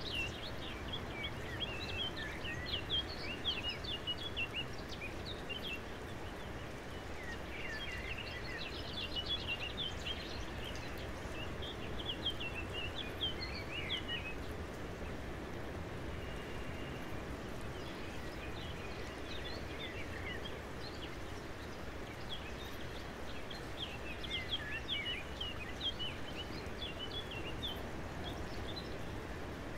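Small birds chirping and twittering in bursts of quick, short calls, three spells of them, over a steady outdoor hiss.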